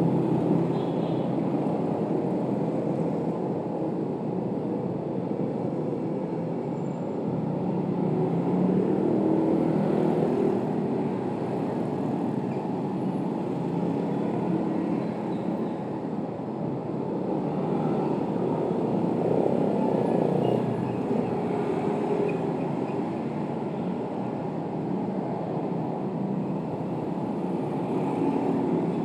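Steady low rumbling ambience, swelling and easing slowly every few seconds, with no distinct events standing out.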